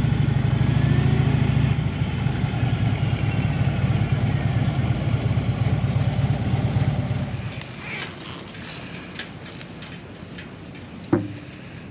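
A vehicle engine idling with a steady rumble, which fades out about seven seconds in. A few light clicks follow, and a single sharp thump comes near the end.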